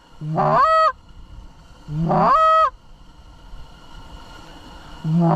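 Long, drawn-out Canada goose honks from a short-reed goose call: each breaks from a low note up to a high note, holds and drops off at the end. Two sound about two seconds apart, and a third starts near the end.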